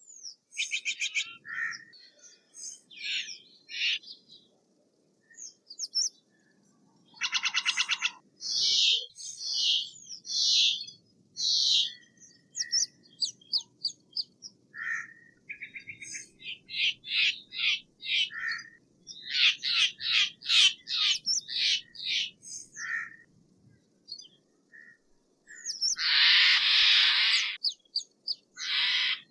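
Steller's jay calling: a fast rattle about a second in and another about seven seconds in, runs of short harsh notes repeated in quick series, and one long harsh screech near the end.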